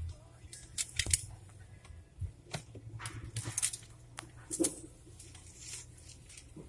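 Inside a car at an automatic car wash: irregular clicks and short hissy spatters over a steady low hum.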